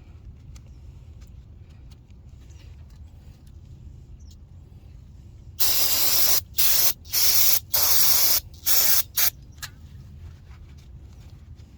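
Aerosol spray can hissing in a string of about six short bursts, loud and spread across all pitches, starting around the middle and stopping a few seconds later.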